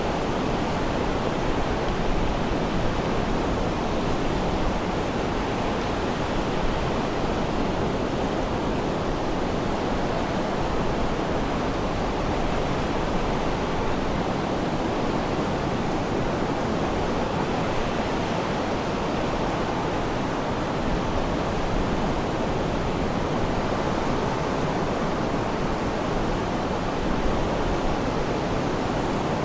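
Sea surf making a steady, even rushing wash of water noise, with no distinct wave breaks standing out.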